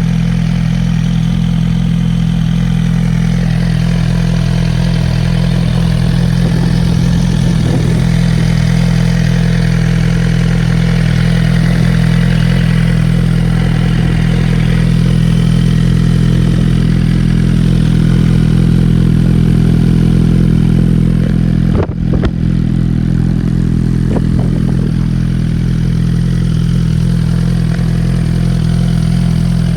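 2017 Suzuki GSX-R1000's inline-four engine idling steadily, with a brief drop in level about two-thirds of the way through.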